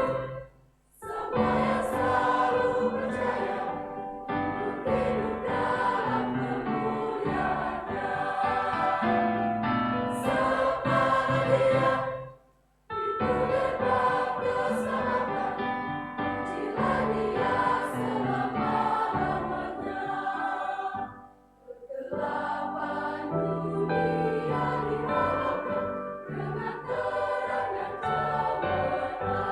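Church choir singing a hymn in parts, with short breaks between phrases about a second in, at about twelve seconds and at about twenty-one seconds.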